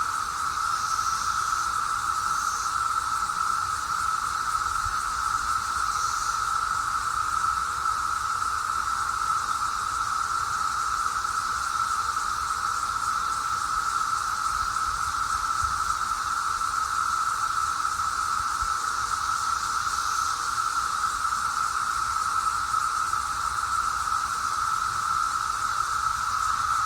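Chorus of cicadas singing in a steady, unbroken drone pitched around a single high hum, with a few faint short higher chirps now and then.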